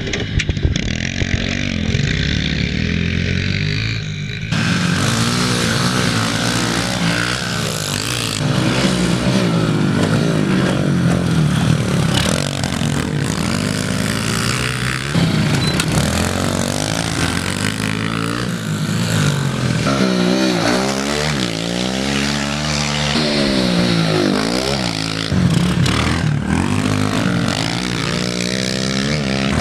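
Small single-cylinder pit bike engine running hard on a dirt track, revving up and down as it is ridden through the gears and corners. About four seconds in the sound becomes suddenly louder and brighter.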